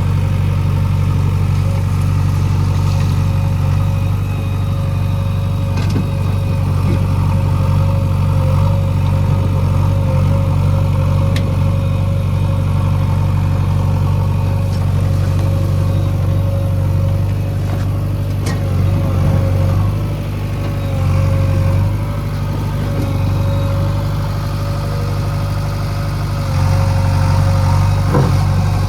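Heavy diesel engine of earthmoving machinery running steadily at a low, even speed, with a steady whine above the drone and a few faint clicks.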